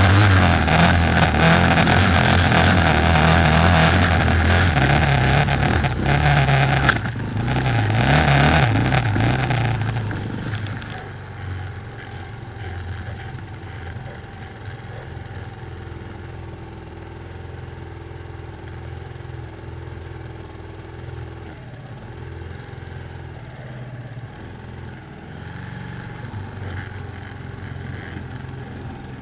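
200 cc quad bike engine running loudly with rising and falling revs, then about ten seconds in it drops to a much quieter, steady running.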